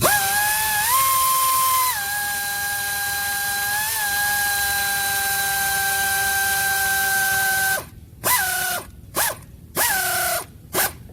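Handheld power tool, drill-type, running with a steady high whine for about eight seconds, then four short trigger pulls, each winding down in pitch.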